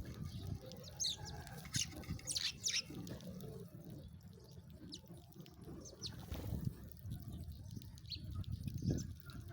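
Sparrows chirping: a quick cluster of short, high chirps about one to three seconds in, then a few fainter chirps, over a steady low rumble.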